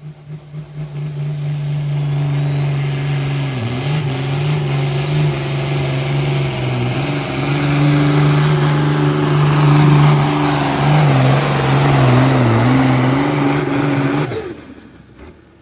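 Pulling tractor's diesel engine held at full throttle through a hook, its pitch dipping and recovering several times under load, then cut off suddenly near the end.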